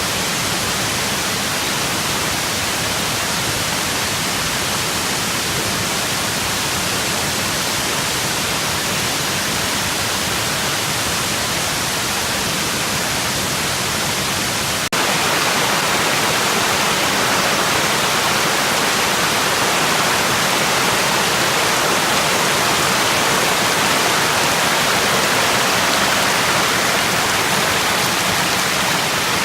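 Waterfall: a steady rush of falling water with no other sound standing out, getting louder after a cut about halfway through.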